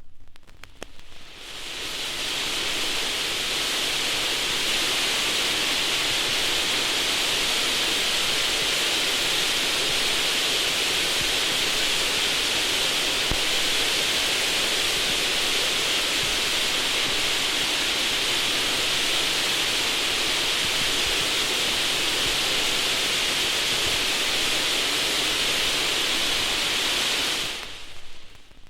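A steady, even hiss, a sound effect from a disaster record, fading in over the first couple of seconds and fading out near the end.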